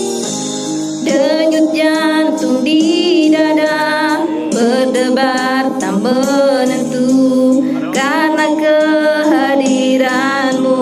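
Music: a woman singing a slow ballad over instrumental backing, her voice coming in about a second in with long wavering held notes.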